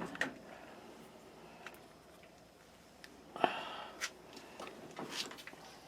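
Faint handling noise: a few light clicks and knocks, with a couple of short sniff-like breaths, about three and a half and five seconds in.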